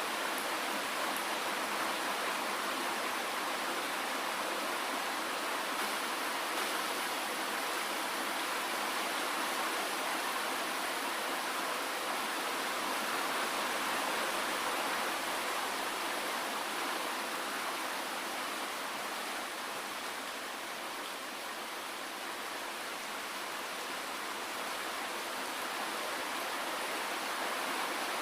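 Steady rain falling, an even hiss with no single drops standing out and almost no low rumble.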